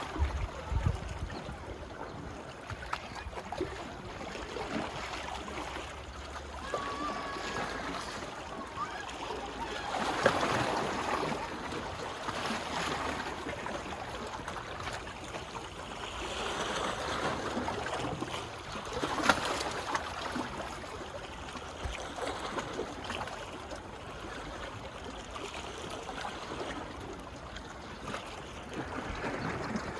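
Small waves lapping and washing on a beach shore. The wash swells and eases, louder about ten seconds in and again from about sixteen to twenty seconds.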